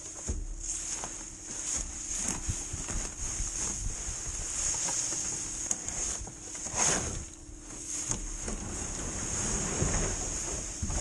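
Irregular rustling and scraping of a load of raked leaves being unloaded, with a louder rush about seven seconds in, over a faint steady hum.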